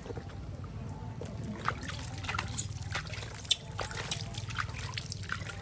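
Water trickling and splashing, as when bathing a small animal. Three short, very high squeaks about halfway through stand out above it.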